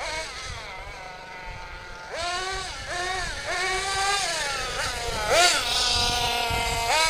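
Kyosho USA-1 nitro monster truck's GX .21 glow engine revving in repeated throttle bursts: quieter for about the first two seconds, then rising and falling in pitch several times, loudest about five and a half seconds in. The owner reckons the engine is running a tiny bit lean.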